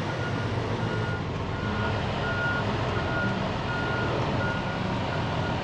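Diesel truck's backup alarm beeping steadily, about three beeps every two seconds, over the low, even running of the engine as the truck reverses.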